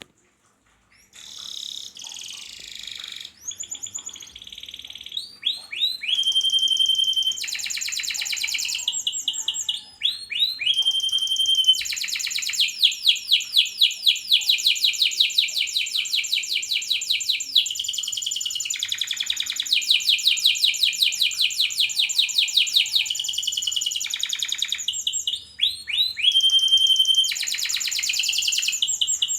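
Pied ('panda') domestic canary singing its long song: fast rolling trills and chirped phrases, starting about a second in and running on with only brief pauses.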